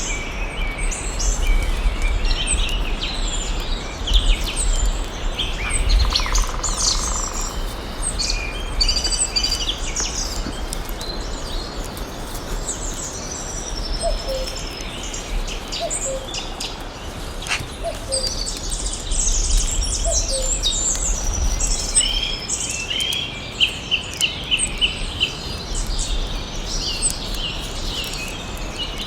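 Several birds chirping and singing in a forest, with many overlapping short calls and, late on, a fast trill of repeated notes. A steady background hiss and a low, uneven rumble run underneath.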